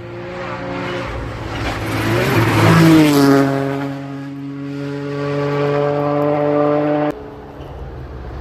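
A rally car's engine approaching at speed, loudest about three seconds in, its pitch dropping as it passes and then holding a steady note as it drives away. The sound cuts off suddenly about seven seconds in.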